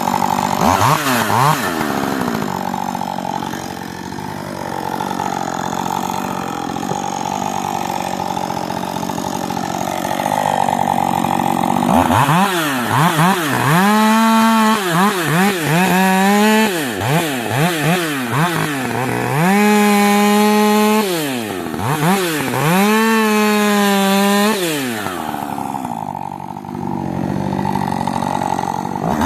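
Two-stroke Husqvarna 562 chainsaw, rebuilt from parts of three saws, running steadily at first. From about twelve seconds in it is revved up and down repeatedly and held at high revs twice, before dropping back to a steadier run near the end.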